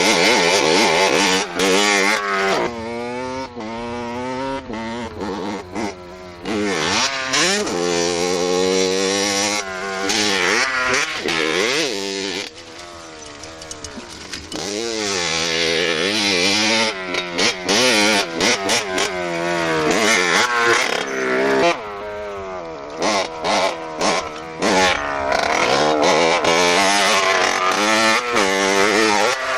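Motorcycle engine running and revving, its pitch climbing and falling again and again as it accelerates and eases off, with a quieter stretch about halfway through.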